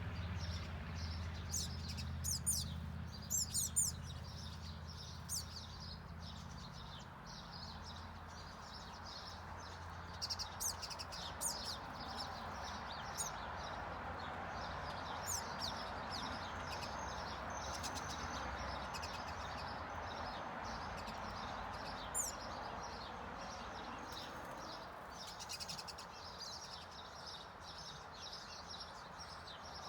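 Finches chirping and twittering in many short, high calls, busiest in the first few seconds and again about a third of the way in. Underneath is a steady low rumble that fades out after the first third, along with a soft hiss.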